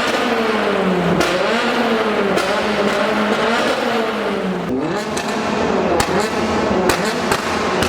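Car engine revving, its pitch swinging up and down several times, with a few sharp clicks or pops in the second half.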